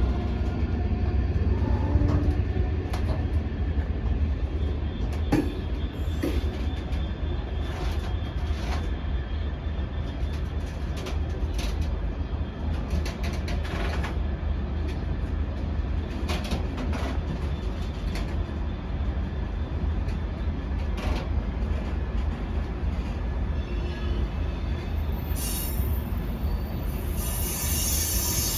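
Freight train wagons rolling past with a steady low rumble and irregular clicks of the wheels over rail joints. A high-pitched wheel squeal starts near the end.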